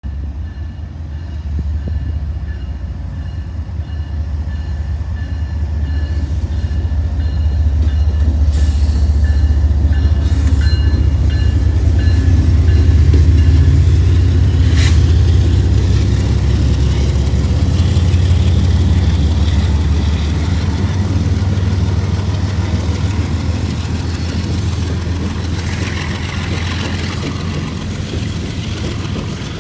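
A freight train led by GE diesel locomotives passing close by: a deep engine rumble builds as the locomotives approach and is loudest about halfway through, with a few sharp metallic clanks. It then eases into the rolling of covered hopper cars over the rails.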